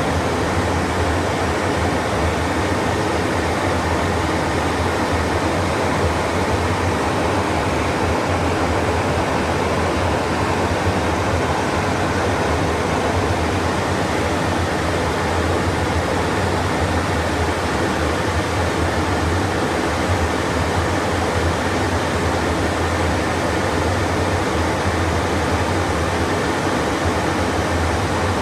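Steady flight-deck noise of an airliner in flight: an even rushing of airflow and cabin air with a constant low hum underneath.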